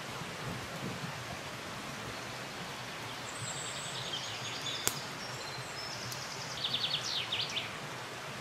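Steady rushing forest background noise, with a small songbird singing high, quick trills from about three seconds in, loudest near the end. A single sharp crack sounds near the middle.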